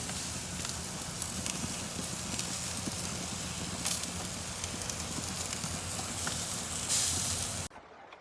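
Rain and hail pelting down on and around a grill: a dense hiss full of sharp ticks and cracks, which stops abruptly near the end.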